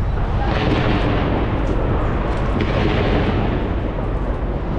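New Year fireworks fired from the top of a skyscraper going off in a dense, continuous barrage of bursts with a deep rumble beneath. A fresh, louder volley starts about half a second in.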